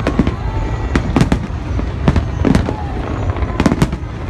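Aerial fireworks exploding, about ten sharp bangs at irregular spacing, some in quick pairs and triples, each trailing a short echo, over a steady low rumble.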